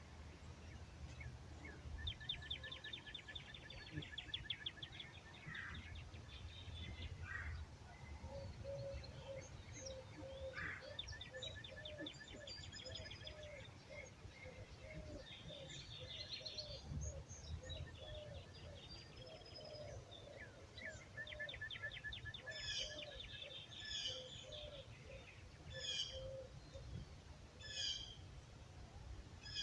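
Several songbirds singing at dawn, with fast trills and sharp chirps, and from about a quarter of the way in a lower call repeated over and over. A low background rumble runs underneath.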